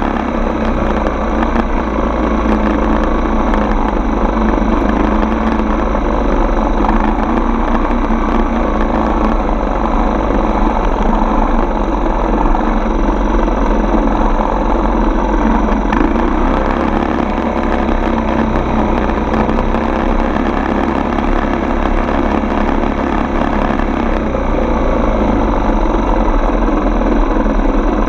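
Four-stroke dirt bike engine running steadily, with no sharp changes in speed.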